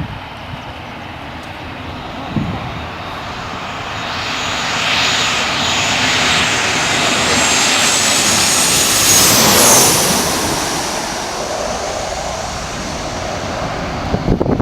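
Airliner passing close by: its engine noise builds over several seconds to a peak about ten seconds in, where a high whine drops in pitch as it goes past, then eases off.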